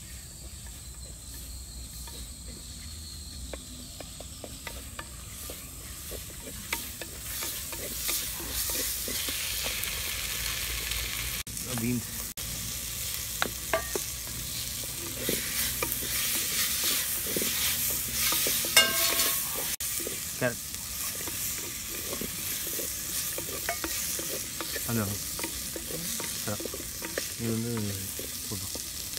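Chopped vegetables sizzling and frying in a clay pot over a wood fire while a wooden spatula stirs them, with scattered scrapes and knocks of the spatula against the pot. The sizzling gets louder a few seconds in.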